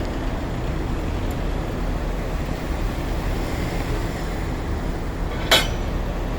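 Heavy tow truck and towed bus rumbling steadily at a low pitch. A single short, sharp high-pitched sound cuts in about five and a half seconds in.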